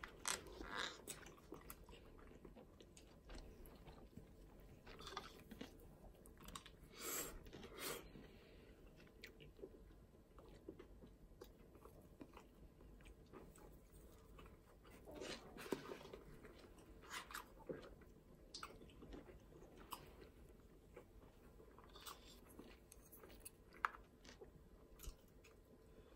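Quiet eating sounds: a person chewing and biting, with irregular soft clicks and scrapes as a plastic spoon scoops fried rice in a plastic delivery tray.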